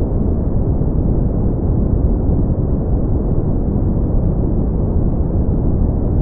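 Brown noise: a steady, deep rumbling hiss with the most energy in the bass and nothing in the high end.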